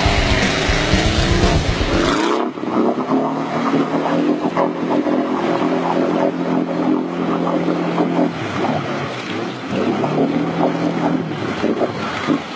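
Volkswagen Beetle's air-cooled flat-four engine running under load as the car ploughs through deep muddy water, with water splashing around it. The sound changes abruptly about two seconds in. After that the engine holds a steady note, easing off briefly midway.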